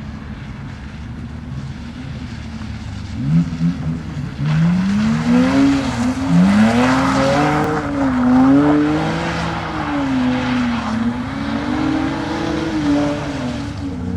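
A car engine runs low at first, then from about three seconds in revs up and down over and over, its pitch rising and falling. Tyre screech from a drifting car runs under the revving from about four seconds in until about ten seconds.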